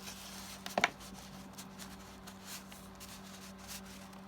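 Paper and card tags being handled and slid into journal pockets: soft rustling and scraping of paper, with one sharp tap a little under a second in, over a steady low hum.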